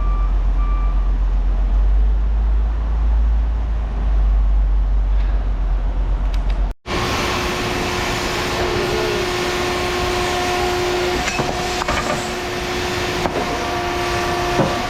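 Heavy vehicle engine running with a deep rumble, a reversing alarm beeping for about the first second. After a sudden cut about seven seconds in, a different steady engine drone with a held hum and a few clicks.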